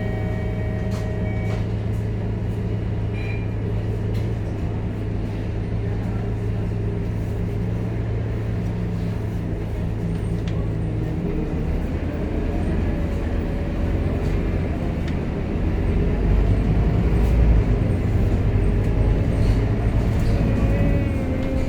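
Scania K230UB Euro V city bus's diesel engine heard from on board, running steadily; its note changes about halfway through and it gets louder in the last few seconds.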